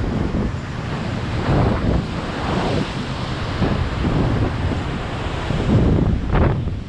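Strong wind buffeting the microphone in uneven gusts, over the steady rush of ocean surf.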